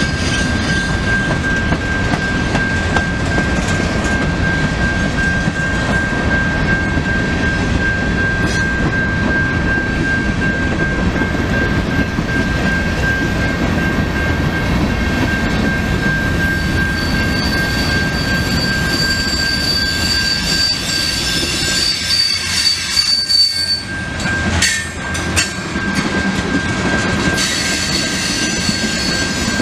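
A train rolling past: steady rumble of wheels on rail with a constant high-pitched wheel squeal. A second, higher squeal joins for several seconds past the middle. About three-quarters through, the rumble briefly drops away amid a few sharp clanks.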